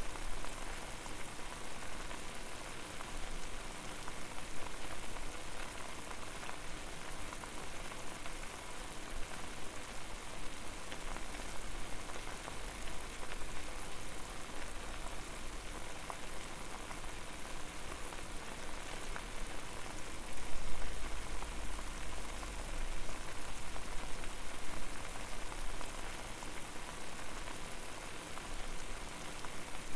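Water boiling over a fire: a steady, dense bubbling and spattering, with a brief louder swell about twenty seconds in.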